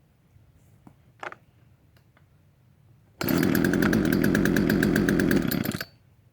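Poulan Wild Thing two-stroke chainsaw engine catching on a pull-start with the choke out: it runs loud and steady for about two and a half seconds, then stops suddenly and dies.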